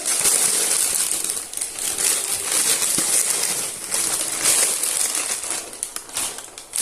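Paper bread bag full of freshly popped popcorn crinkling and rustling as it is handled, with sharp little crackles and rattles throughout.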